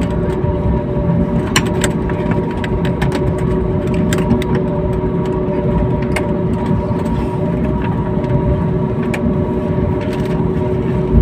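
Jet airliner cabin on the ground before takeoff: a steady engine rumble with a steady whine over it, and a few faint clicks.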